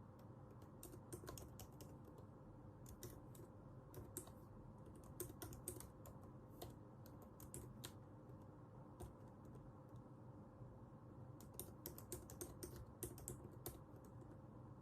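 Typing on a computer keyboard: faint key clicks in quick irregular runs, with pauses of a second or two between runs.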